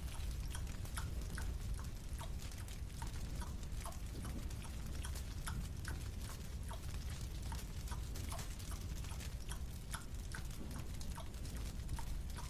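Marshmallow being chewed: rapid small sticky clicks and smacks, several a second, over a low steady hum.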